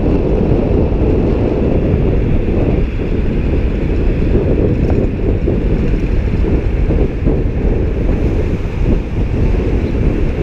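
Wind buffeting the microphone on a moving bicycle: a loud, steady low rumble.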